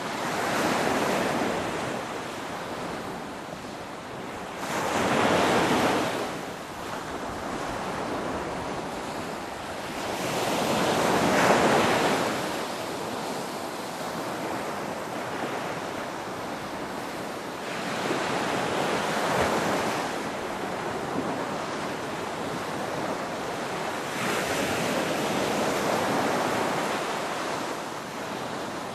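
Ocean waves rolling in and breaking as surf. The surf rises and falls in swells every five to seven seconds, the loudest about eleven seconds in.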